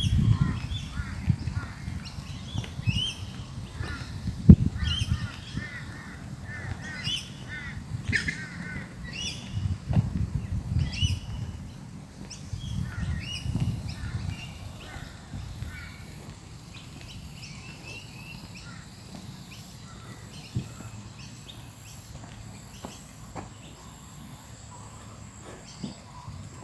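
Birds calling: a busy run of short, harsh chirping calls, thickest in the first half and thinning out toward the end, over a low rumble that dies away about halfway through.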